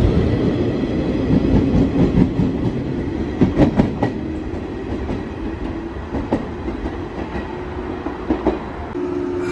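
Electric local train pulling out and running away past the platform, its wheels clattering over rail joints. A cluster of louder clacks comes a little over three seconds in, and the running sound fades as the train draws off.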